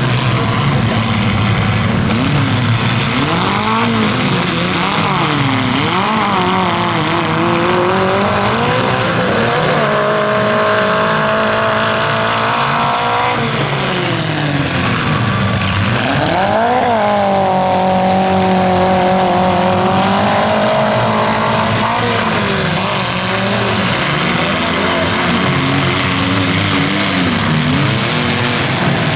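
Engines of compact demolition-derby cars revving up and down, several at once, with the revs now and then held high for a few seconds.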